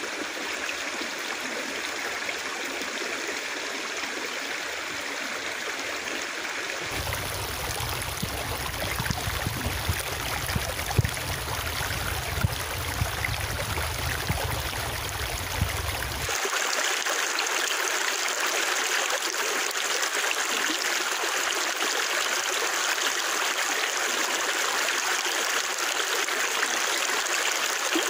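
A river flowing and rushing steadily. The sound changes abruptly twice: a low rumble with a few small knocks joins it about a quarter of the way in, and the water turns brighter and hissier a little past halfway.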